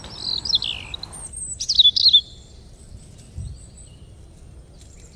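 Small songbird chirping: quick high falling chirps in the first second, a louder run of chirps about two seconds in, then only faint calls.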